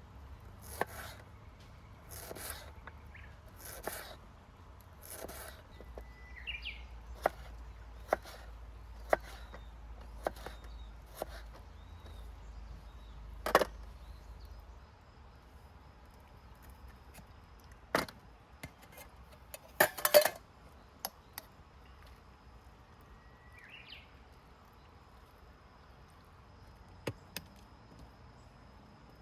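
Soft strokes about once a second for the first few seconds, then scattered sharp wooden clicks and cracks, with a loud cluster of cracks about two-thirds of the way through. A bird gives two short chirps, one early and one near the end.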